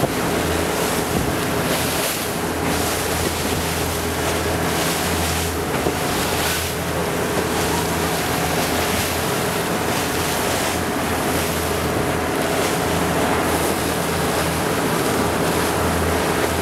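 Sightseeing boat's engine running with a steady low hum under continuous water and wind noise, with gusts of wind buffeting the microphone.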